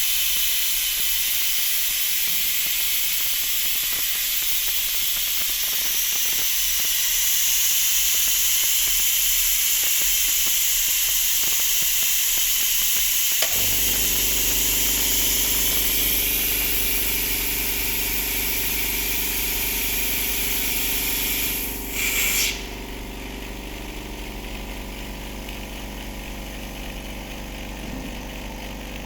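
Vacuum leak tester running a test cycle: a loud, steady hiss of air starts abruptly. About halfway through, a steady motor hum joins it. Near the end, a short burst of hiss comes, then the hiss drops away, leaving the hum.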